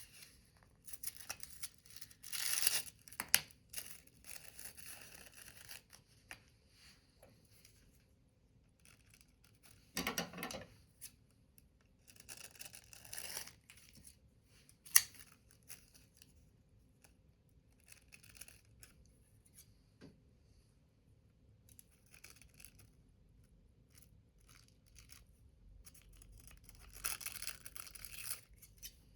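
Paper being worked by hand in short scratchy bursts of rustling and cutting, loudest near the start and near the end, with one sharp click about fifteen seconds in.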